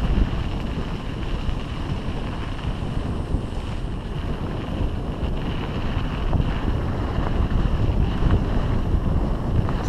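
Loud, steady wind buffeting the microphone of a camera on a mountain bike moving at speed, with rumbling ride noise underneath.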